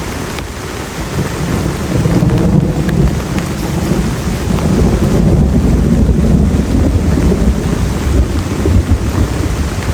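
Heavy rain falling steadily, with a long, deep rumble of thunder that swells about two seconds in and rolls on until near the end.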